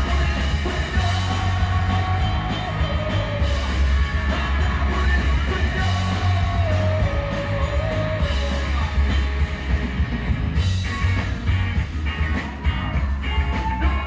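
Live rock band playing, with a singer's voice over strong bass and drums.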